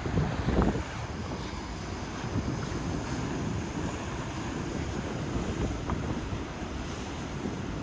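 Wind buffeting the microphone over the steady wash of heavy surf, with a louder gust about half a second in.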